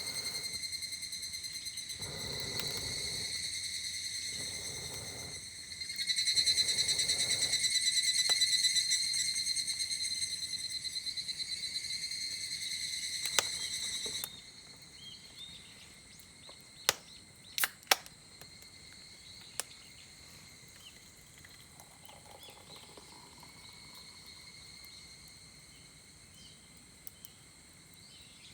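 Cicada chorus buzzing in a loud, high, fast-pulsing drone that cuts off suddenly about halfway through, leaving a much fainter insect drone with a few sharp clicks.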